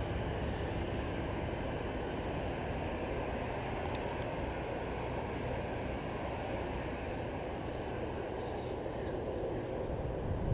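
Airbus A318 airliner's jet engines running at idle as it taxis, a steady, even rumble and rush.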